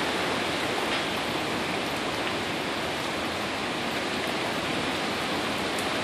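Heavy rain falling in a hurricane, a steady even hiss with no gusts or breaks.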